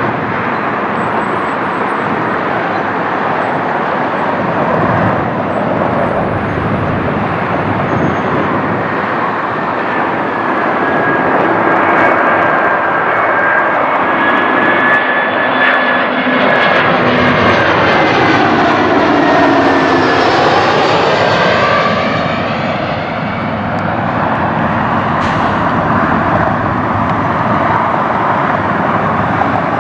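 Airbus A320's CFM56 jet engines going by: a loud rushing roar with a high whine, the tones sliding down in pitch over a few seconds about two-thirds of the way through as the jet passes.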